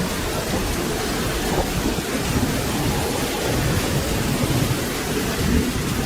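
Steady rain falling, with a low rumble of thunder rolling underneath.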